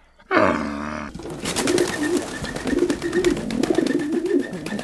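A short, loud animal call in the first second, then birds cooing: low, wavering calls that repeat over a dense, rapid crackle of clicks.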